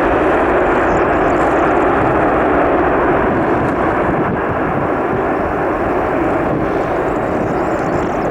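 Cargo aircraft's engines running loud and steady as a dense rushing noise, easing slightly about halfway through.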